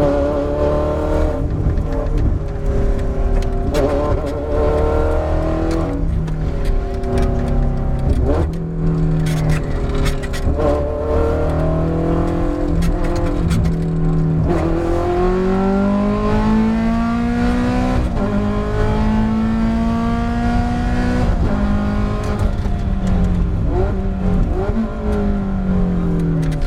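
Ferrari F430 GT race car's V8 engine running hard, its revs climbing and dropping sharply with quick gear changes, then one longer pull that falls away near the end.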